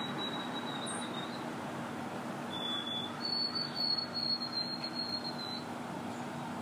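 Storm wind and wind-driven waves on Lake Winnipeg: a steady rushing noise, with a thin high whistle heard twice, the second longer.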